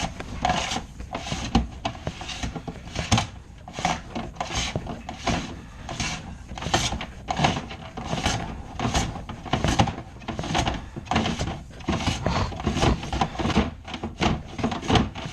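Dryer vent cleaning rods and their head scraping and rubbing against the inside of the vent duct, in a run of irregular rasping strokes about one or two a second as the duct is scoured of lint.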